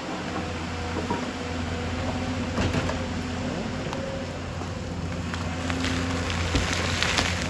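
Excavator's diesel engine running steadily with a low hum, with scattered knocks and a denser clatter of scraping near the end as the machine works.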